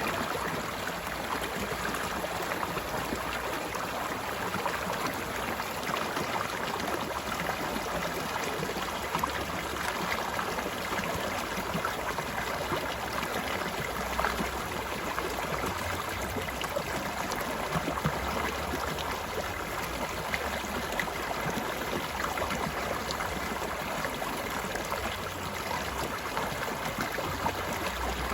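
Shallow stream flowing steadily over rocks, with a continuous babble and many small splashes and trickles.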